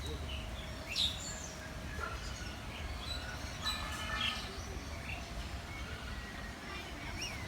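Several birds chirping and calling: short, high calls scattered throughout, with a louder call about a second in, over a steady low hum.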